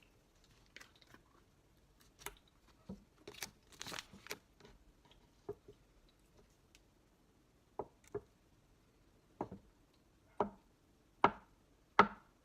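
Irregular knocks and taps on a hard surface, a few scattered clicks at first, then single sharper knocks about a second apart that grow louder near the end.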